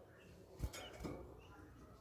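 A faint pause between bird calls, with a soft knock about half a second in and a weaker one a little later.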